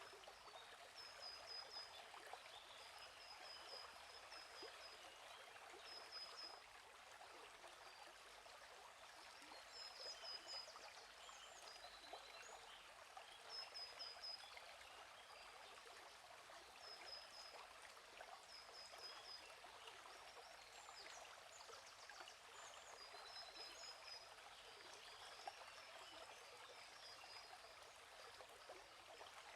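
Faint, steady flow of a running stream, with a bird chirping short high phrases every couple of seconds.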